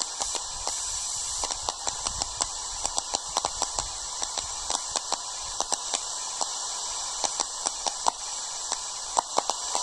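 Radio receiver on the aviation band giving out steady static hiss, peppered with irregular crackling clicks; no transmission comes through.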